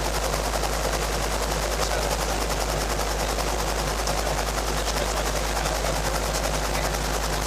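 Robinson R22 helicopter running, its piston engine and spinning rotor making a steady, loud noise with a fast, even pulsing.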